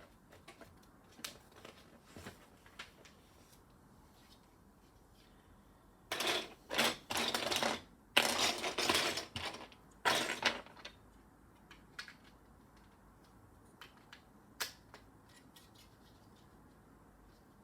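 Plastic Lego pieces being handled: a few separate clicks, then about four seconds of dense rattling and clattering of loose bricks starting about six seconds in, then a couple more single clicks.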